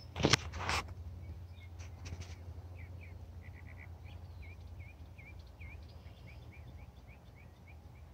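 Small bird calling a run of short slurred chirps, about three a second, starting a couple of seconds in, over a low steady rumble. A few loud rustling bursts come right at the start.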